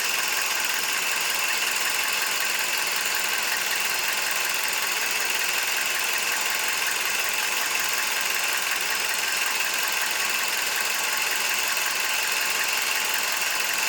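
Warmed-up Toyota 1NZ-FE four-cylinder engine with a bolt-on turbo, heard close up at idle: a steady mechanical clatter with the ticking of the fuel injectors and a slight tappet noise mixed in.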